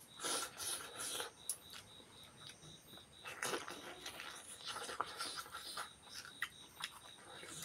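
Close-miked eating sounds: irregular chewing and wet mouth clicks, with fingers pulling at cooked beef leg meat and picking up rice on a banana leaf.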